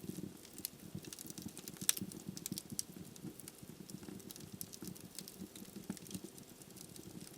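Wood fire burning in a fireplace: irregular sharp crackles and pops from the burning logs over a low, steady flame rumble, with one louder pop about two seconds in.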